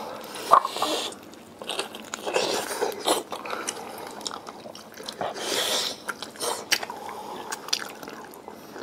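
Close-up eating sounds: biting and chewing braised pig's trotters, with irregular sharp clicks and short wet mouth noises.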